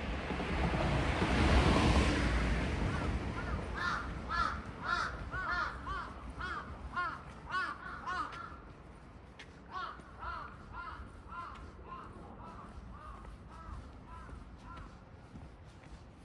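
A vehicle goes by, its rush swelling and fading over the first three seconds. Then crows caw in a long run of short calls, louder at first and fainter from about ten seconds in.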